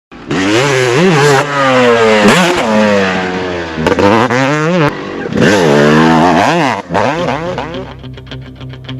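Motocross bike engine revving hard, its pitch climbing and dropping sharply several times as the throttle is opened and shut. Guitar music comes in near the end.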